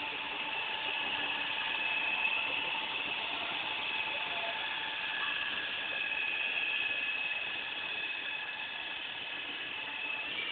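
Radio-controlled model helicopter's motor and gearing whining steadily in flight, the pitch drifting slightly up and down as the rotor speed changes.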